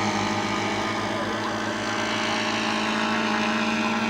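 Radio-controlled model seaplanes' engines running steadily in flight just after takeoff, holding an even pitch.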